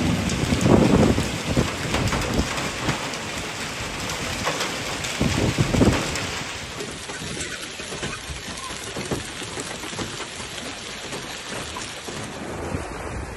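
Heavy rain pounding down on surfaces, a dense hiss full of small hits, with louder low swells about a second in and again near six seconds; the sound changes character about seven seconds in.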